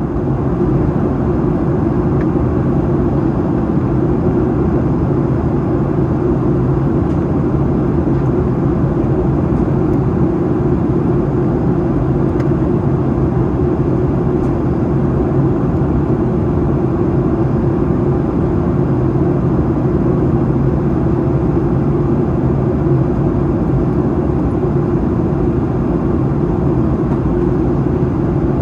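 Steady cabin noise inside a Boeing 737-800 airliner at the start of its descent: the low drone of its CFM56-7B jet engines blended with the rush of air over the fuselage.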